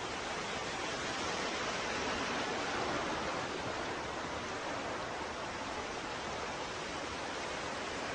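Ocean waves washing on a shore, a continuous hiss of surf that swells slightly a couple of seconds in and then eases.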